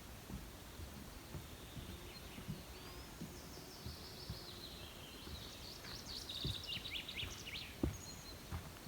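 Small songbirds chirping and singing, with a quick run of high notes partway through, over a low rumble with a few soft thumps on the microphone.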